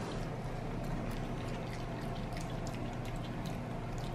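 Wet chewing and soft crunching of steamed green beans: faint, irregular small clicks over a steady low hum.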